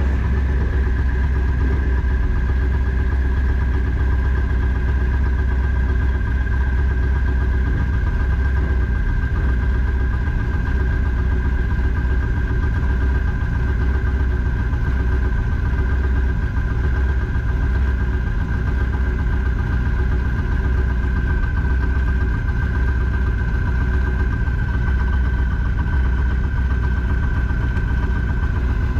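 Twin-turbocharged engine of a 1962 Chevy Nova wagon drag car running steadily at an even, unchanging speed. There is a strong low rumble with a steady high whine over it, and no revving.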